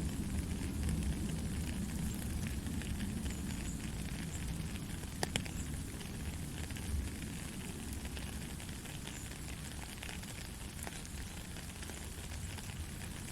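Soft rain falling steadily: a continuous hiss with a low rumble and scattered sharp ticks of individual drops.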